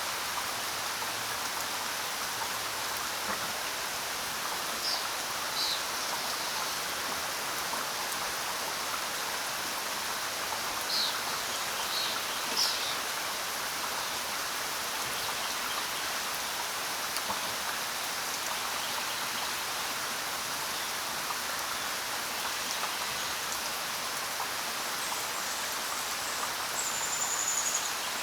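Steady rain falling in an even hiss, with a few short, high bird chirps scattered through it and a brief, thin, slightly falling whistle near the end.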